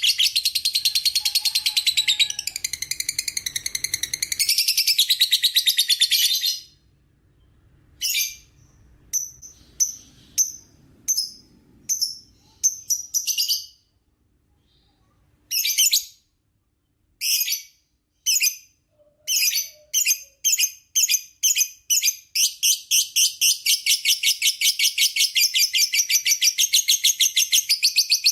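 Lovebird's long, rapid, high-pitched chattering trill (the 'ngekek' song). About six seconds in it breaks into separate sharp chirps, which come closer and closer together and run back into the unbroken chatter from about twenty-two seconds on.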